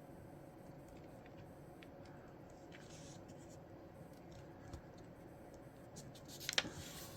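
Sheet of paper being folded by hand, with soft rustles and light scrapes as the corner is brought down and the crease pressed. A louder cluster of short rustling scrapes comes about six and a half seconds in.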